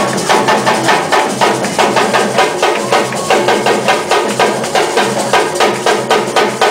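Afro-Brazilian drum ensemble playing a fast, even beat of sharp strikes over a low drum tone.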